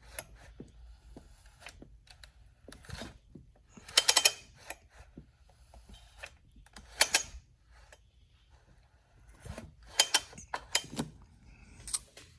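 A few short, sharp clicks and clatters, spread out with quiet between them, from the chainsaw being handled while its cylinder is inspected.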